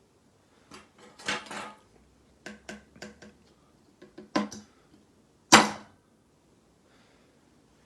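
Kitchenware being handled: a plastic microwave egg poacher and its dish clicking and clattering in a string of short knocks and ticks, with a sharper knock about five and a half seconds in.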